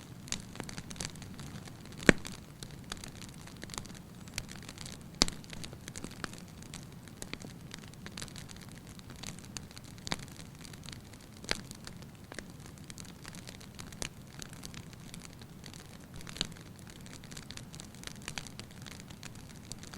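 Fire burning in a fireplace: a steady low rush with irregular crackles and sharp pops, the loudest pop about two seconds in and another about five seconds in.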